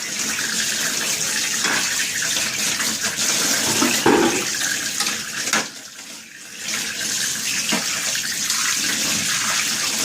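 Running tap water splashing over fridge shelves and trays being washed in a sink, with a few knocks of the plastic parts being handled. The water drops away briefly just after the middle.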